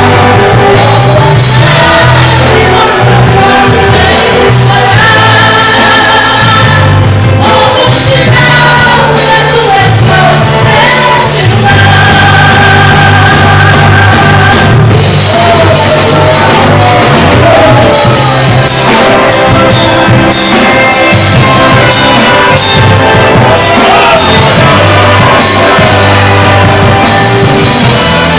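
Live gospel music from a band and orchestra, with a steady bass line and a sliding melody line that is sung in parts, in a large hall.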